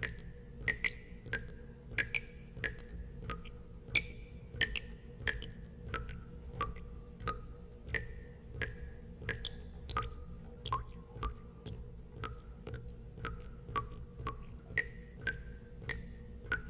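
Water drops falling one by one into water, an irregular plinking about two a second, each drop a sharp click with a short ringing tone. A steady low hum runs underneath.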